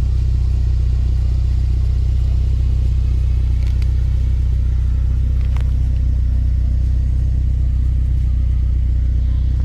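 Honda Integra Type R DC5's K20 four-cylinder engine running at steady revs, a loud even low drone with no revving.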